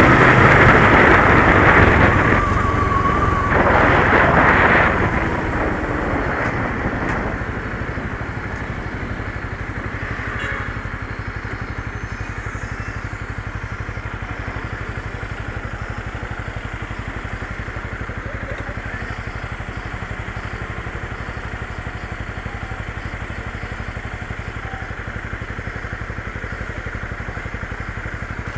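Motorcycle engine, loud under way with rushing noise for the first five seconds or so, then dropping to a steady, evenly pulsing low run, like idling, for the rest.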